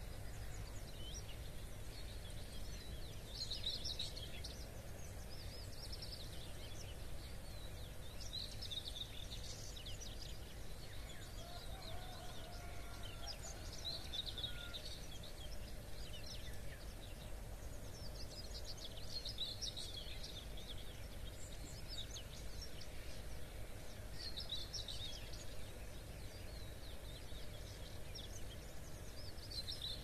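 A songbird singing a short, rapid phrase about every five seconds, over a steady low rumble.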